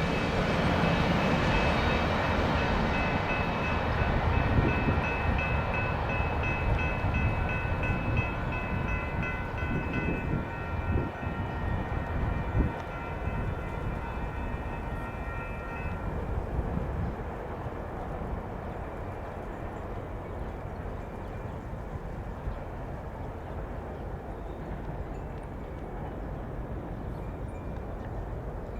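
Mixed freight train rolling past with a heavy rumble. Several high steady tones ring over it for the first half and then stop. The rumble then fades to a lower steady level.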